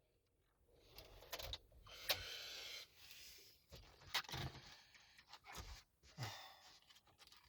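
Faint scattered clicks, short scrapes and rustles: handling noise inside a car, with a brief steadier scrape about two seconds in.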